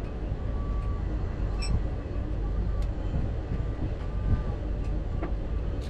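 Steady low rumble of a heavy goods vehicle on the move, with faint short squeaks and light clicks over it.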